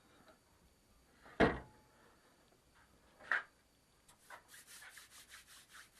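Two light knocks of a wooden block being handled, then a quick run of short scratching strokes on wood, about five or six a second, as a pencil traces a pattern onto a 4x4 block.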